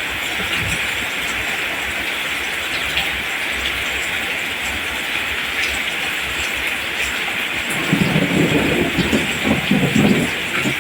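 Rain falling steadily, a constant hiss. About eight seconds in, a louder, irregular low rumble joins for a couple of seconds.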